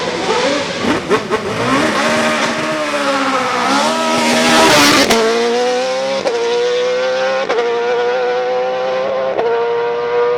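Hillclimb racing car engine at high revs, its pitch rising and falling for the first few seconds, then held high as the car accelerates through fast gear changes, each a sharp crack with a brief dip in pitch, about one to two seconds apart.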